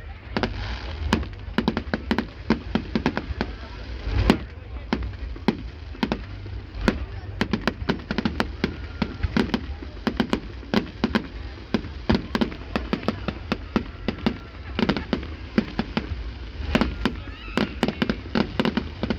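Fireworks display: a rapid, irregular barrage of bangs and crackles, with a heavy bang about four seconds in and denser volleys near the end, over faint voices.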